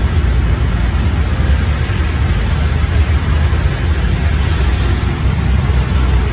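Steady rain and traffic on a wet city road: an even hiss over a constant low rumble.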